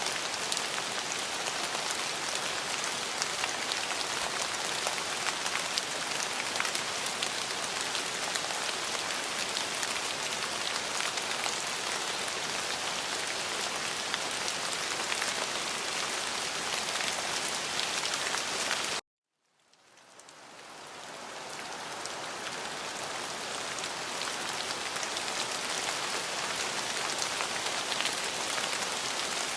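Steady rain falling, a dense patter of drops. About two-thirds of the way through the sound cuts off suddenly to silence for about half a second, then the rain fades back in over a few seconds, as at the joining point of a looped recording.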